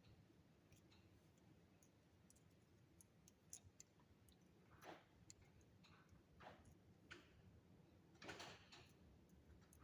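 Near silence with faint scattered clicks and ticks and a few soft rustles, from copper wire being bent and handled with pliers.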